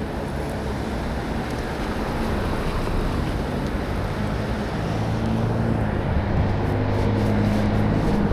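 Steady rush of heavy rain and traffic on a wet road. A vehicle's low engine hum grows louder from about five seconds in.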